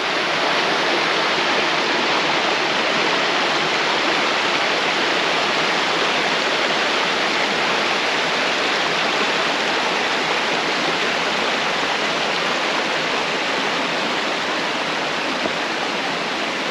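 Fast-flowing water rushing steadily, a dense even roar of a river over rapids.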